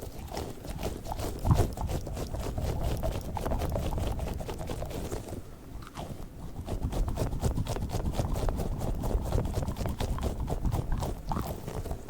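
Squishy balls being squeezed and handled close to the microphone: a dense run of small sticky crackles and taps over a low rumble, easing off briefly about halfway through.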